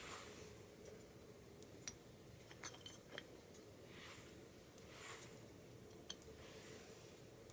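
Faint small wood fire crackling in a wood stove, burning chopsticks and scrap wood: a few sharp pops scattered through, with soft rushing swells between them.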